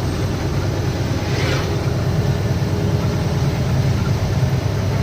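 Laden lorry's diesel engine running steadily on the road, a low drone with road noise over it; a brief faint hiss about a second and a half in.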